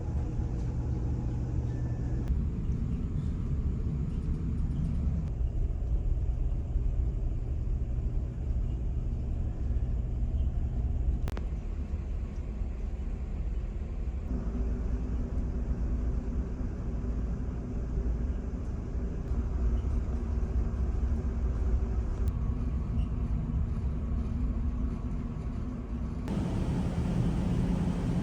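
Steady low rumble and hum of a large car ferry's engines heard on board, with a few steady low tones. The background shifts abruptly several times.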